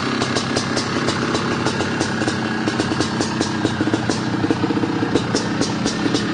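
Honda CR500's single-cylinder two-stroke engine running steadily at idle.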